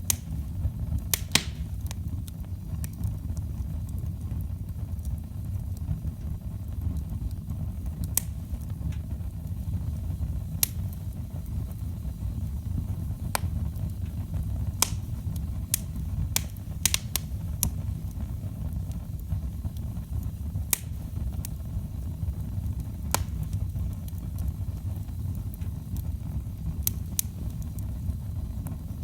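Wood fire burning in a fireplace: a steady low rumble with irregular sharp crackles and pops from the burning logs, sometimes two in quick succession.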